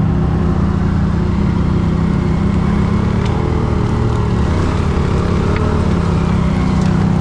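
Quad bike engine running steadily under way, at a fairly constant pitch.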